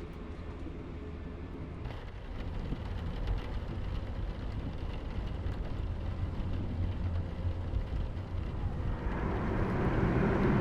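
Steady low rumble and road noise of a vehicle in motion, growing louder toward the end.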